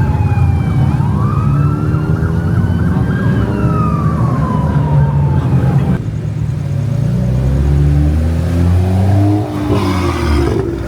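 Emergency-vehicle siren wailing with a slow rise and fall over a low engine rumble. It cuts off suddenly about six seconds in, and a car engine then accelerates, its pitch climbing twice.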